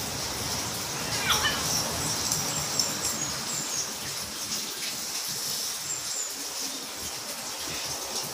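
Small birds chirping briefly a few times, high and thin, over a steady rushing hiss, with one short rising squeak about a second in.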